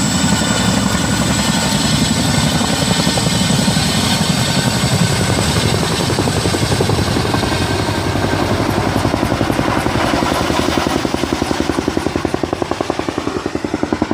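Boeing CH-47 Chinook tandem-rotor helicopter running: a rapid, even rotor beat over the steady high whine of its twin turboshaft engines. The sound grows quieter in the last couple of seconds, the beat standing out more plainly.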